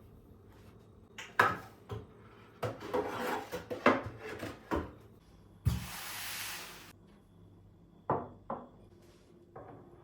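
Household objects being handled: a run of knocks and rubbing scrapes, a steady hiss lasting about a second just past the middle, then two more sharp knocks near the end.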